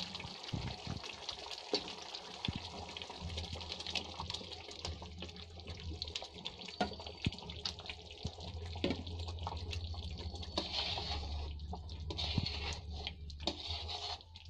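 Onion paste frying in oil in a metal kadhai, a steady crackle of small pops and sizzle. Tomato paste goes in partway through, and near the end a metal spoon stirs and scrapes in the pan.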